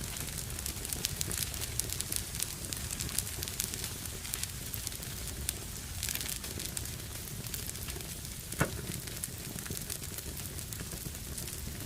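Fire burning in a fireplace, crackling steadily over a low rumble of the flames, with one louder pop about two-thirds of the way through.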